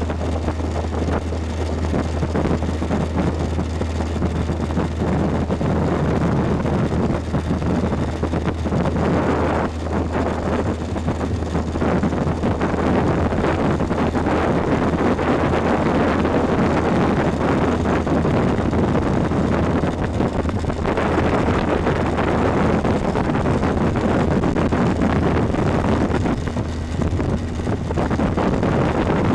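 Motorboat under way: a steady low engine hum under a loud, even rush of wind and water, with wind buffeting the microphone.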